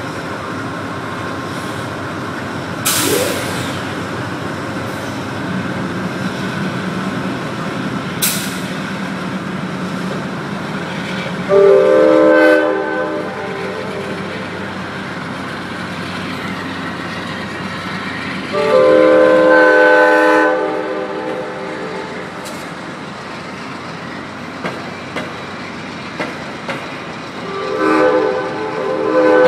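Amtrak passenger train led by two GE P42DC Genesis diesel locomotives rolling past with a steady low engine drone. Its multi-note air horn sounds three times: a short blast about a third of the way in, then two longer blasts of about two seconds each. Two brief sharp screeches come a few seconds in.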